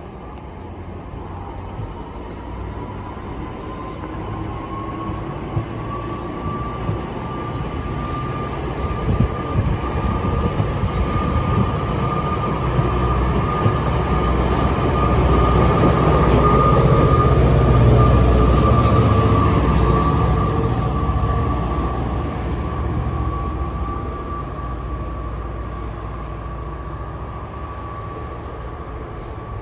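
New Jersey Transit commuter train passing, its rumble swelling to a peak about halfway and then fading, with a steady high wheel squeal heard throughout.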